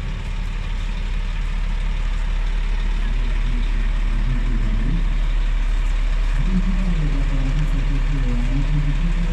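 Truck engine running, growing gradually louder, with an uneven low drone that comes in about halfway through.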